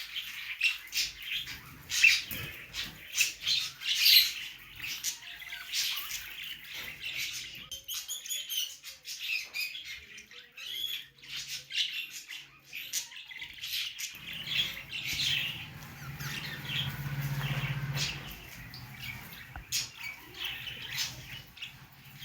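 Budgerigars chirping and squawking, many short, sharp calls overlapping, loudest in the first few seconds. A low hum sits underneath for a few seconds past the middle.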